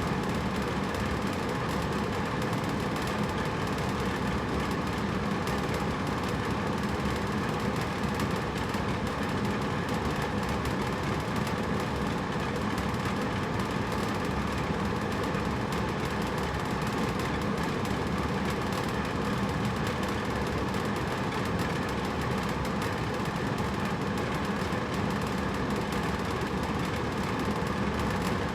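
Hotel room air conditioner running steadily: a constant fan whoosh with a low hum underneath.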